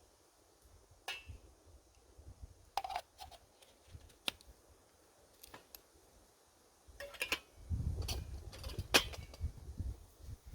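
Scattered light clicks and clinks of small gear being handled. From about seven seconds in, wind rumbles on the microphone.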